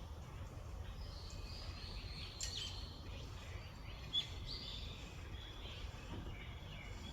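Several small songbirds chirping and calling over a steady low outdoor rumble, with one sharp, loud note about four seconds in.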